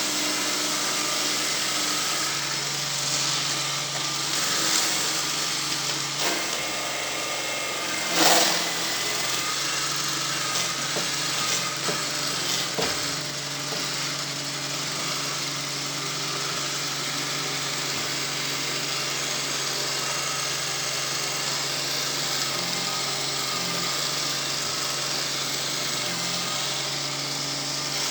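Motorized sweeping machine running steadily, with a brief louder rush about eight seconds in.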